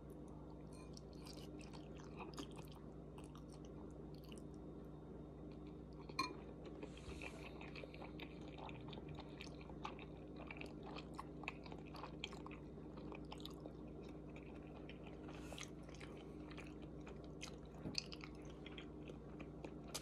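Close mouth sounds of a person eating udon noodles: slurping and chewing, with many small wet clicks and a sharper one about six seconds in, over a steady low hum.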